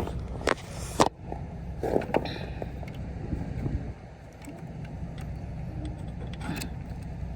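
A tractor-trailer's engine idling with a steady low rumble, while a trailer lock is worked loose with a few sharp metal clicks and knocks, mostly in the first couple of seconds.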